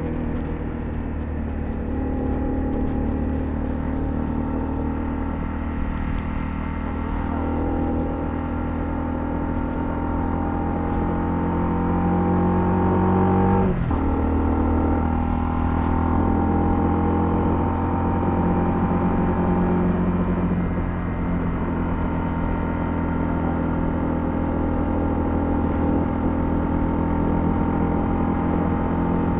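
Honda CL250's 249 cc single-cylinder engine running under way, the engine note rising as the bike accelerates, then breaking off and dropping at a gear change about halfway through before pulling steadily again.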